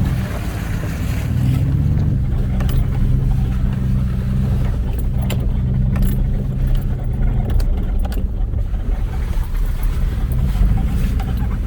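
Vehicle engine running at low, steady revs while crawling over a rocky trail, with scattered knocks and rattles as the vehicle jolts over the rocks.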